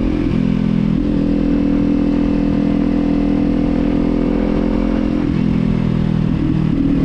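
Kawasaki Z400's parallel-twin engine and exhaust running steadily on the move, its pitch dipping just after the start, rising again about a second in and shifting again around five to six seconds in as the revs change. A low wind rumble sits underneath.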